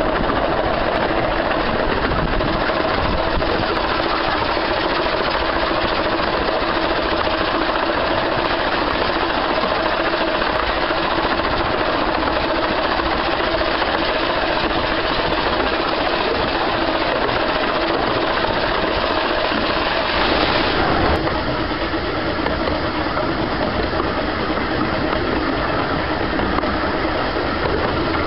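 Steady running noise of a 15-inch gauge steam-hauled train heard from on board a carriage: wheels on the rails and the carriage rattling along. There is a brief louder rush about 20 seconds in, after which it runs a little quieter.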